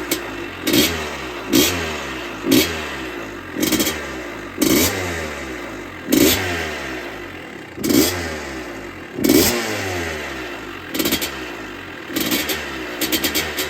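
The 1986 Maico GM 250 two-stroke single-cylinder dirt bike engine being revved in about nine quick throttle blips, the revs falling back each time towards a low, fast-ticking idle.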